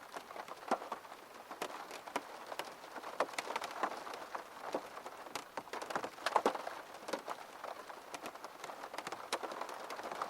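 Steady rainfall with many separate drops tapping irregularly on a hard surface close by.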